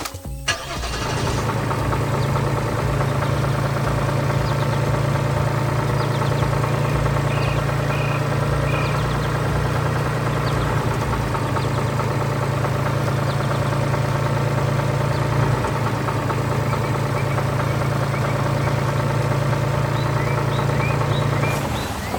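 A farm machine's engine running steadily at an even pitch, coming in about a second in and cutting off shortly before the end.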